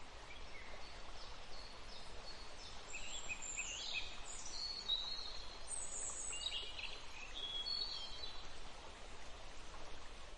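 Birds chirping and singing over a steady outdoor hiss, the calls thickest from about three seconds in.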